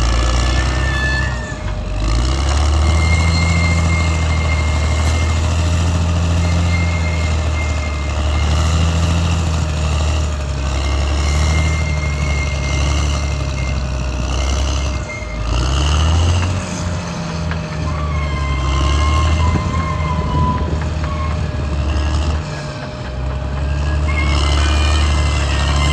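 Caterpillar D6R XL bulldozer's diesel engine running hard, its pitch rising and falling as the load changes, with brief easings a few times. Thin high squealing tones come and go over it.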